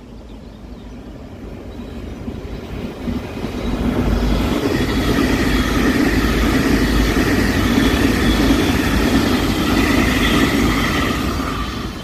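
Taiwan Railways EMU900 electric multiple unit passing through without stopping: its running noise grows over about four seconds, stays loud with a steady high whine in it, and begins to fade near the end.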